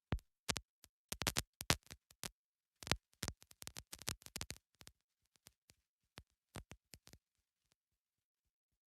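A scatter of faint, sharp clicks and crackles on the air-traffic-control radio feed between transmissions. They come in irregular clusters, then thin out and stop about three quarters of the way through.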